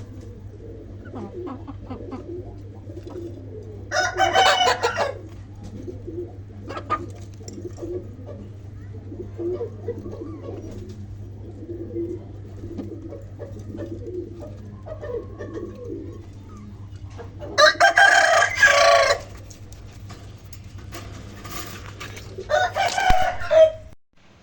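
Birds calling: three loud calls, each about a second or a second and a half long, about 4 s, 18 s and 23 s in, over softer repeated low calls and a steady low hum that cuts off near the end.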